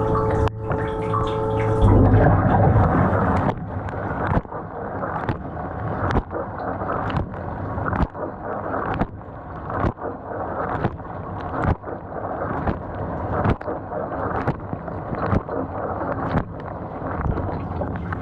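GE dishwasher running with water sloshing and gurgling inside, a steady hum cutting off about two seconds in, then regular knocks about every second. Its lower spray arm is not spinning, from a stuck valve ball in the arm's supply nozzle.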